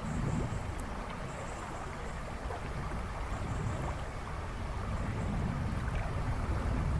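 River water rushing and babbling over stones in a steady wash of noise, with a few faint high bird chirps in the first few seconds.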